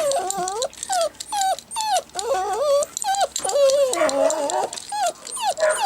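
Labrador puppy whining: a run of short, high-pitched cries that bend up and down, about two a second, with one longer wavering cry around the middle.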